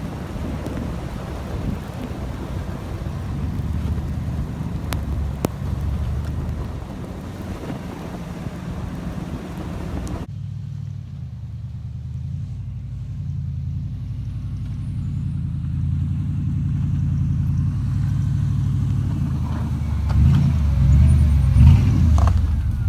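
Motor vehicle engine and road noise. About ten seconds in, the sound cuts abruptly to a steady low engine rumble, which grows louder near the end.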